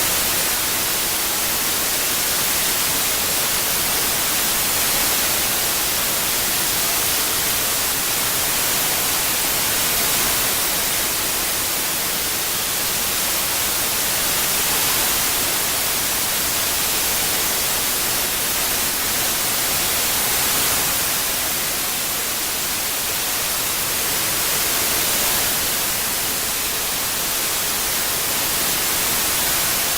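Synthesized white noise, a steady hiss strongest in the high frequencies, swelling and easing gently about every five seconds as it is panned around the listener.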